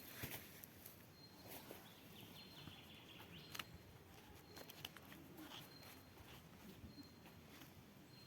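Near silence with outdoor ambience: faint short high-pitched chirps now and then, and scattered small clicks.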